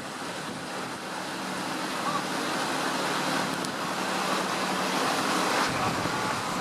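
Steady rushing water noise that swells slightly over the few seconds, with a faint steady low hum underneath.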